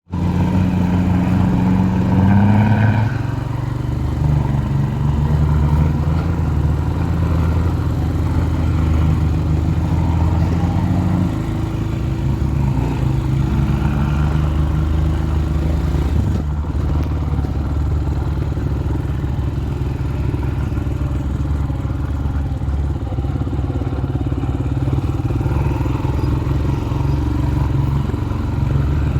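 A heavy vehicle's engine running steadily under load, its pitch rising about two seconds in and settling lower after about eleven seconds.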